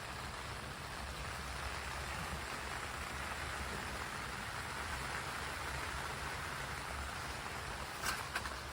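Steady rain falling, an even hiss of drops, with a few short scratchy sounds near the end.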